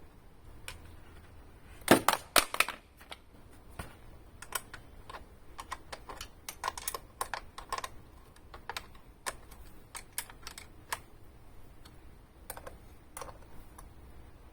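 Irregular clicks and light knocks of small hard objects being handled, with a quick cluster of louder ones about two seconds in.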